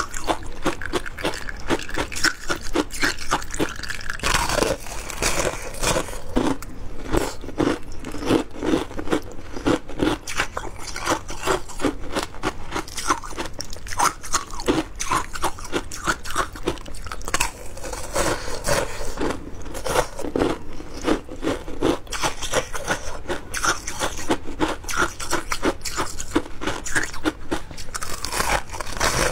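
Someone biting and crunching passion fruit shaved ice in the mouth: dense, irregular crunches, several a second, keeping on without a break.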